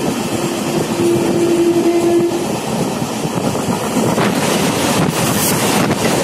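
Steady running noise and wind of a moving express train. A horn sounds one steady tone for about two and a half seconds at the start. From about four seconds in the rushing grows louder and brighter as another train passes close alongside.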